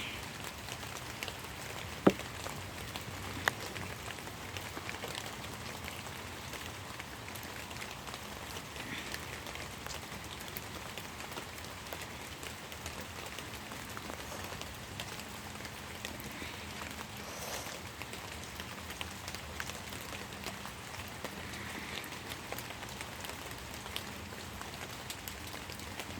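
Steady rain falling, a constant hiss with scattered small drop ticks, and one sharp click about two seconds in.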